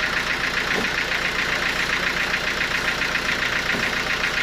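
Sawmill machinery running steadily, with a fast, even pulsing over a constant low hum.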